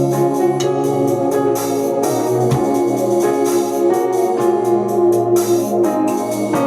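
Worship music led by an electronic organ holding sustained chords, over a steady percussion beat.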